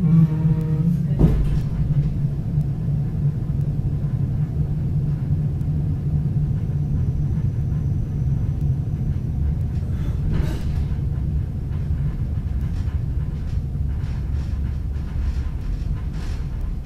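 Steady low rumble of a suburban passenger car on the move behind a TEM2 diesel locomotive, heard from inside the car. A brief pitched tone sounds in the first second and ends with a knock, and a short hiss comes about ten seconds in.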